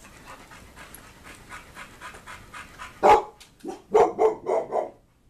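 Dogs playing: quick, even panting, then a loud play bark about three seconds in followed by a quick run of several more barks.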